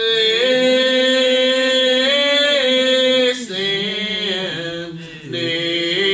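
Unaccompanied congregational singing of a hymn in the slow, lined-out style, each syllable held for seconds: here the word "angel" drawn out over long sustained notes that step up and down, with short breaks about three and a half and five seconds in.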